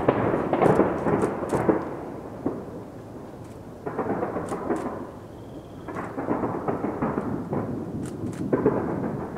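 Distant fireworks barrage: a dense run of deep, rumbling booms with some sharp crackle on top, swelling and easing in waves, loudest in the first couple of seconds.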